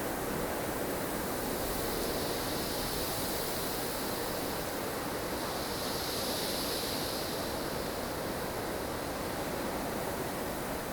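Strong wind of a blustery snowstorm: a steady rush of noise with gusts that swell in the upper hiss, strongest about six seconds in.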